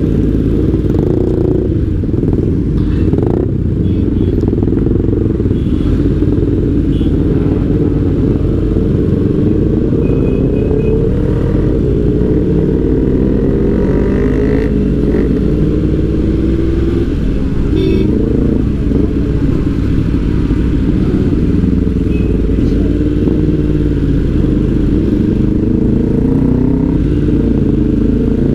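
Motorcycle engine running steadily, its pitch wavering gently up and down.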